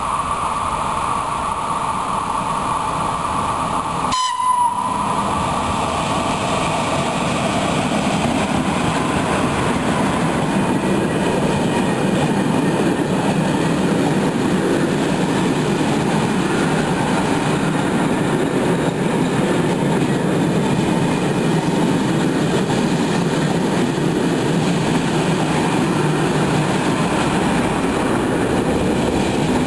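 An electric freight locomotive's horn holds a tone for about four seconds as the train approaches, then cuts off suddenly. After a brief gap, a long line of covered sliding-wall freight wagons rolls past close by with a steady rumble and wheel clatter.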